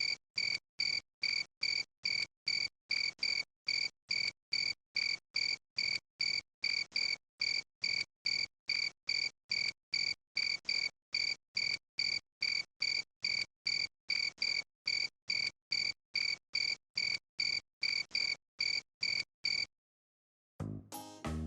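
Cricket chirping in a steady, machine-even rhythm of about two short high ringing chirps a second, with dead silence between them. The chirping stops about 20 seconds in, and music starts just before the end.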